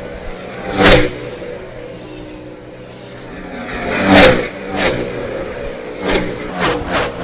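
NASCAR Cup stock cars with V8 engines passing close by at full throttle. One goes by about a second in and another around four seconds in, then a string of cars streams past about every half second near the end.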